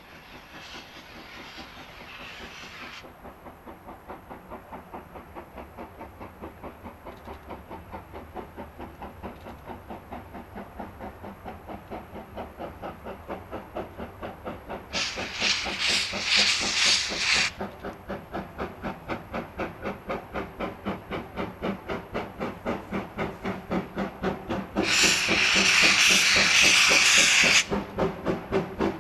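Steam locomotive working, its exhaust chuffing in an even beat that quickens and grows louder as it gathers speed, with loud bursts of steam hiss about halfway through and again near the end.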